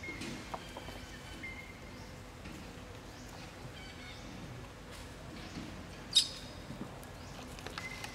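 Outdoor ambience with birds chirping now and then, and one short, loud, high-pitched squeak about six seconds in.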